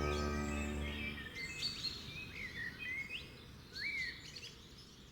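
Wild birds calling: a few short chirps and whistled calls, some rising and falling in pitch, spaced a second or so apart. Background music fades out about a second in.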